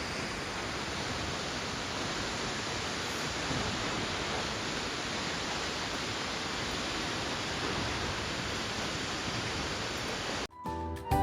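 Steady rushing roar of Akaka Falls, a 442-foot waterfall. Near the end it cuts off suddenly and music begins.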